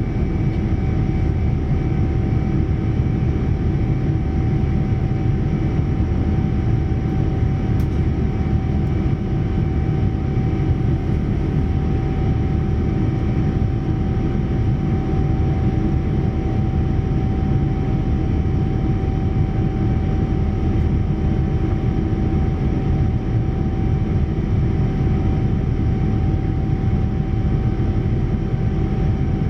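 Steady cabin noise inside a Boeing 787-9 in flight: the deep, even rumble of its Rolls-Royce Trent 1000 engines and the airflow, with a faint steady tone above it.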